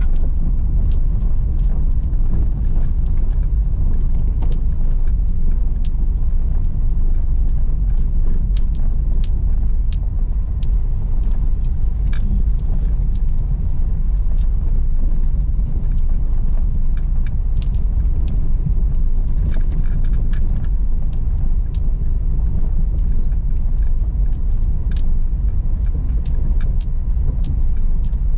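Car driving over an unpaved sandy, rocky road: a steady low rumble of engine and tyres, with scattered small clicks and ticks throughout.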